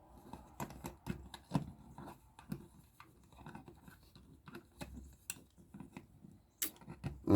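Small plastic model parts being handled and fitted: irregular light clicks and taps, several a second.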